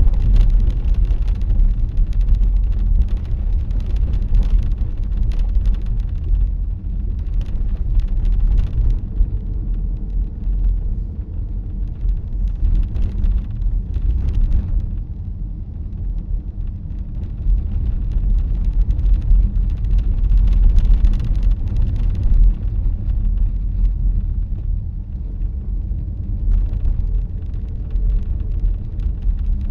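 Cabin road noise of a moving car heard through a dashcam: a steady low rumble of tyres and engine that swells and eases a little but never stops.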